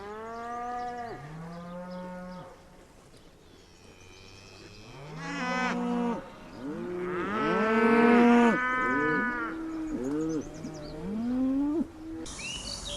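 Cattle mooing: a series of long, drawn-out moos, several overlapping as if from more than one cow. Near the end the mooing gives way abruptly to a steady hiss.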